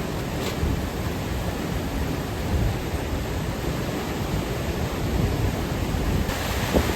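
Waterfall and swift creek water rushing in a steady, even noise.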